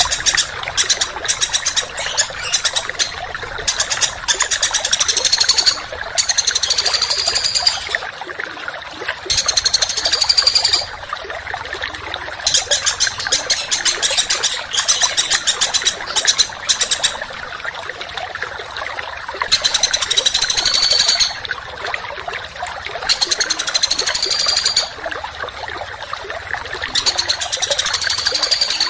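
Songbird singing fast, harsh rattling trills and rising whistled phrases in repeated bursts of a couple of seconds each, over a steady trickle of running water.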